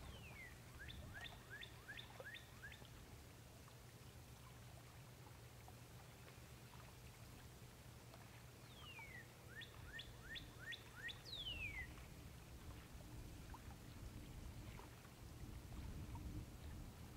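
A songbird singing two short songs, one at the start and one about nine seconds in, each a run of about six quick down-slurred whistles. A faint steady low hum lies under it.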